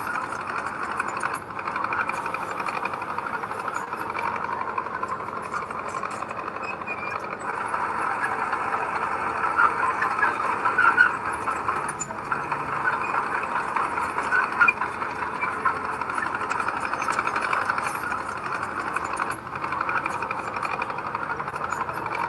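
Heavy diesel earthmoving machinery running steadily at work, with a dense rattling engine sound that swells a little around the middle.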